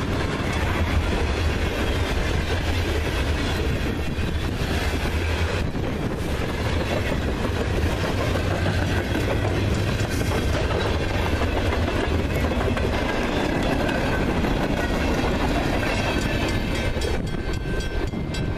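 Freight train rolling past at track side, its wheels clacking over the rail joints with a steady low rumble underneath; the rumble eases somewhat in the last few seconds.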